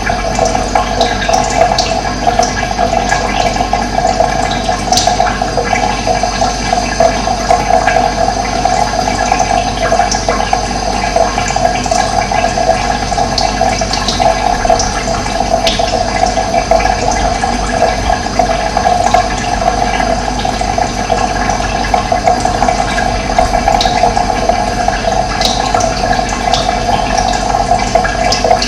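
Running water rushing steadily, with a few brief high bird chirps now and then.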